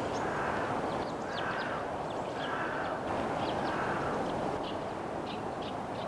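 Birds calling over a steady background rush: one bird gives about four calls roughly a second apart, and many short high chirps sound throughout.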